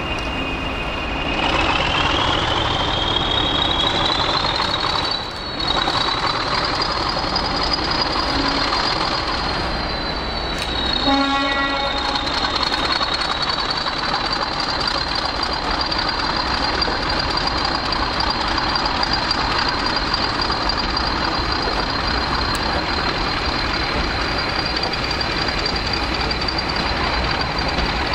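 A train at the station giving a high-pitched two-tone whine. The whine glides up in pitch over the first few seconds and then holds steady, over a constant low rumble. About eleven seconds in, a quick descending run of tones sounds briefly.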